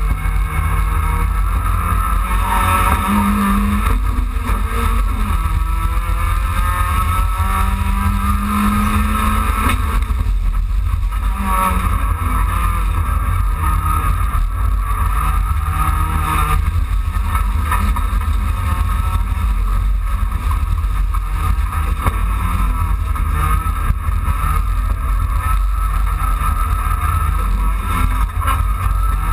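Dacia Logan race car's engine heard from inside the cabin at racing speed, its pitch rising and dropping back several times as it works through the gears, over a heavy, constant low rumble of road and body vibration.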